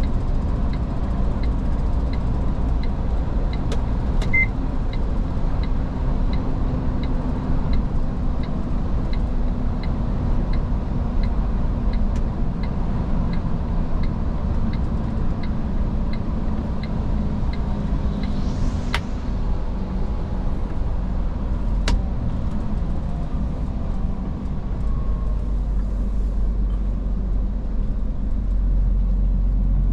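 Iveco S-Way truck driving on the road, heard from inside the cab: a steady engine and road rumble. A regular light ticking about one and a half times a second runs through the first half, and there are a few sharp clicks later.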